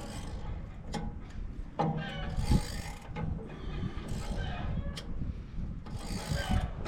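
Hand tools working metal on a wood chipper's blade housing: scattered clicks and clanks, a few sharp knocks standing out, as the blade's bolts are loosened and the blade is worked free.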